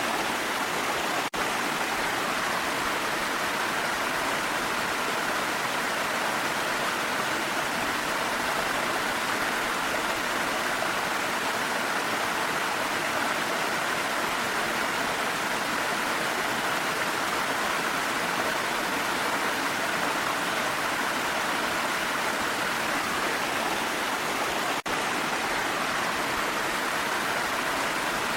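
Steady rushing of a waterfall, an even wash of falling water. It drops out for an instant twice, about a second in and near the end.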